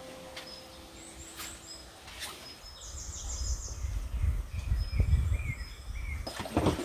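Small birds chirping, with short high calls and a quick trill, over a low outdoor rumble like wind on the microphone that grows louder from about halfway. A held note of background music fades out in the first second or so.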